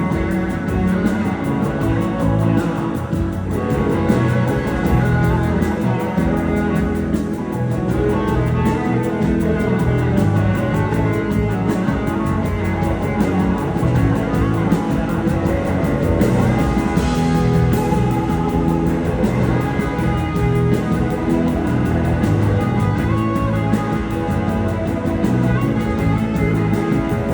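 Live blues-rock band playing an instrumental passage with guitar prominent, at a steady level throughout.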